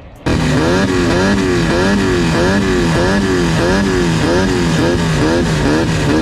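Off-road race car engine running hard, cutting in abruptly just after the start, its pitch swinging up and down two to three times a second as the throttle comes on and off.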